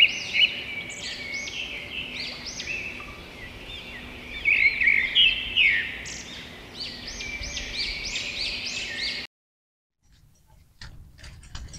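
Birds chirping, many short arched calls repeating and overlapping. They cut off abruptly about nine seconds in. After a moment of silence, faint outdoor background with a few light clicks follows.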